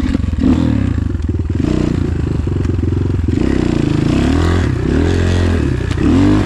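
Enduro motorcycle engine starts loud and revs up and down repeatedly under hard throttle. The bike is being ridden at slippery logs and runs just short of momentum to clear them. Scraping and clattering from the bike on the logs are mixed in.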